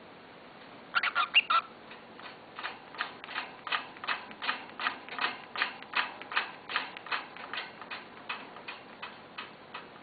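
Pet bird pecking, a quick run of sharp taps about four a second, beginning about a second in with a louder, faster cluster and fading a little near the end.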